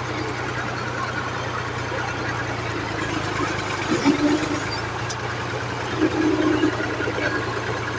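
An engine idling with a steady low hum that drops slightly in pitch about three seconds in, with a few short louder sounds over it near the middle.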